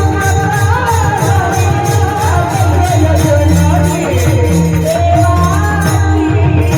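Marathi devotional song: a voice sings a gliding, ornamented melody over a low drum beat and steady jingling percussion keeping time.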